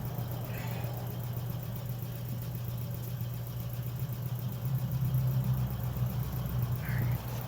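A motor running steadily with a low, even hum, growing a little louder about five seconds in, with two faint short squeaks, one near the start and one near the end.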